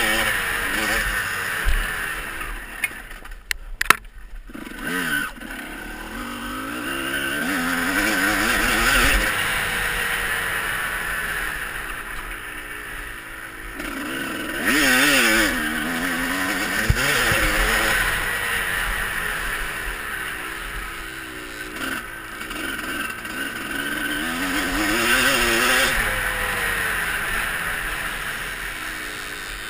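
Motocross bike engine revving up and dropping back over and over as it rides the track. There are a few sharp knocks about four seconds in.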